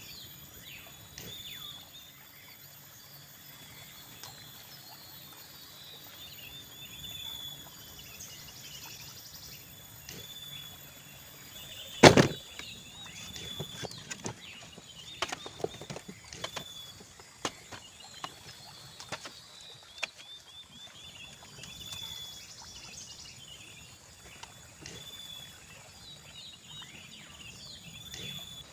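Forest ambience with repeated high chirping calls. About twelve seconds in comes one sharp, loud knock, followed by several lighter knocks and taps.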